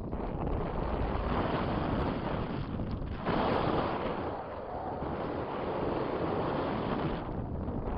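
Strong wind buffeting the microphone, a rushing noise that swells and eases in gusts, dropping briefly about three seconds in and again near the end before building up once more.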